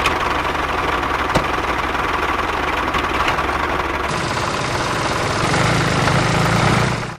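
A small machine running with a steady, noisy clatter. It starts abruptly, and its sound changes about four seconds in.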